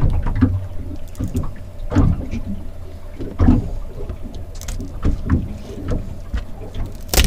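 A knife cracking through lobster shell and knocking on a cutting board: several irregular sharp knocks and cracks, the strongest near the end, over a steady low hum.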